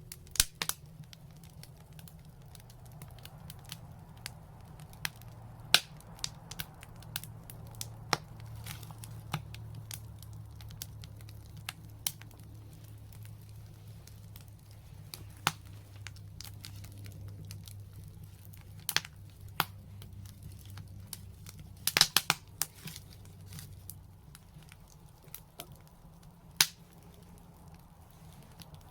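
Wood fire crackling, with irregular sharp pops and snaps and a quick cluster of loud pops about two-thirds of the way through, over a steady low rumble.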